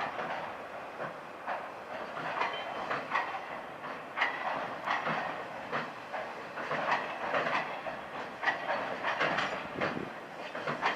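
Cement freight train wagons rolling slowly over the rails, their wheels clacking and knocking irregularly over rail joints under a steady rumble.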